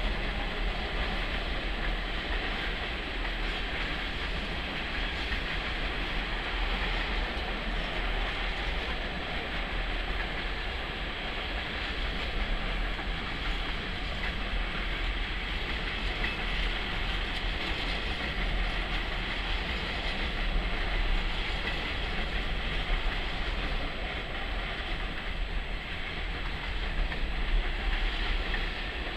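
Long freight train of empty stake flat wagons rolling past at a steady speed: continuous wheel-on-rail noise from the passing wagons, even in level throughout.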